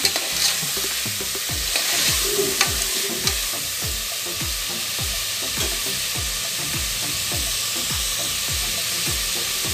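Drumstick and potato pieces sizzling in hot oil in an aluminium pressure cooker, stirred with a steel ladle that scrapes and clicks against the pot a few times in the first seconds.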